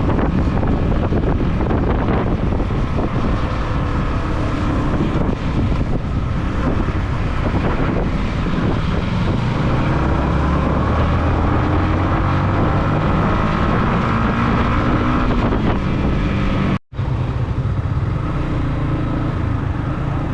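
Motorcycle engine running under way with wind buffeting the microphone; the engine's pitch climbs steadily through the middle as the bike accelerates. The sound drops out for a split second near the end.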